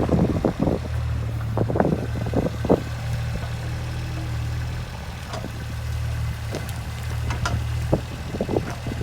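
JCB 8016 mini excavator's diesel engine running steadily at work, with irregular knocks and clatter of the machine digging, heaviest in the first few seconds and again near the end.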